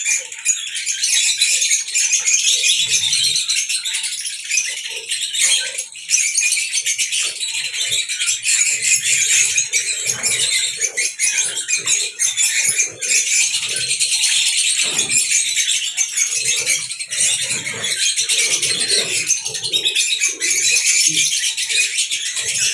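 Many small birds chirping and twittering together in a dense, continuous high-pitched chatter.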